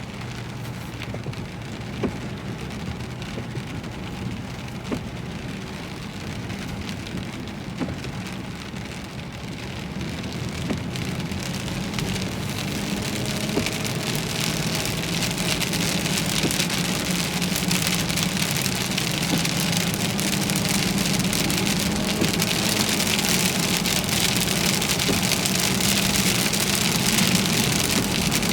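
Rain beating on a moving car, growing heavier and louder from about ten seconds in, over the steady low hum of the car on the road.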